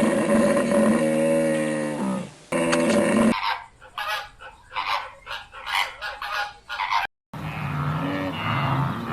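Geese honking: a long drawn-out call, then a quick run of short honks. The sound cuts out abruptly about seven seconds in, and more honking and calls follow.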